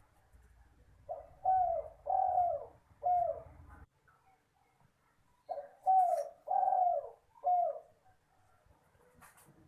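Spotted dove cooing: two four-note phrases a few seconds apart, the third note of each drawn out longest.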